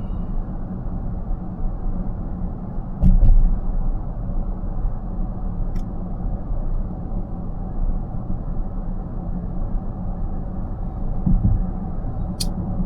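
Steady road and tyre noise of a car driving at speed, heard inside the cabin, with a low thump about three seconds in and another near the end, and a few faint sharp clicks.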